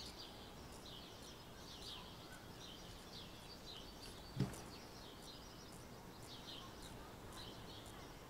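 Faint, repeated small bird chirps in the background, with a single soft thump about four and a half seconds in.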